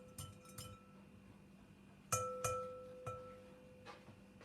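Glass clinking: a few light taps, then three louder clinks about two seconds in, each leaving a short ring.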